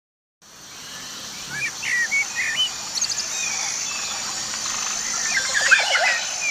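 Birds chirping and singing in short, quick, rising and falling calls over a steady high-pitched hiss, fading in from silence about half a second in.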